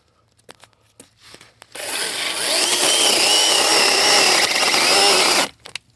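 DeWalt compact battery-powered chainsaw starting up about two seconds in and running with a steady high whine, its chain cutting into a thick oak branch, then stopping suddenly about a second before the end. A few light clicks come before it starts.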